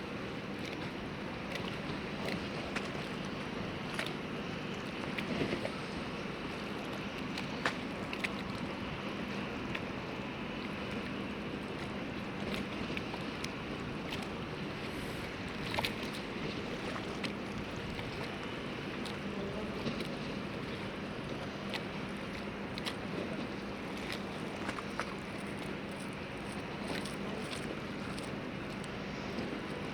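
Harbour ambience: a steady low hum over an even wash of background noise, with scattered small knocks and clicks throughout.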